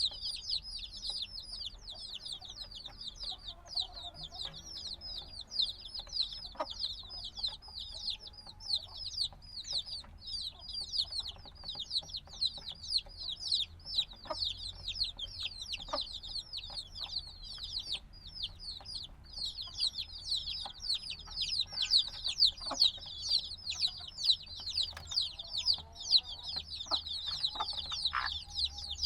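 A brood of chicks a few days old peeping continuously, many rapid high, downward-sliding chirps overlapping, busier and louder in the second half.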